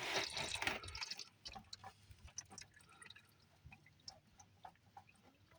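Hydraulic fluid draining from the tractor's hydraulic filter mount into a drain pan. It comes as a brief splashing trickle in the first second, then scattered irregular drips.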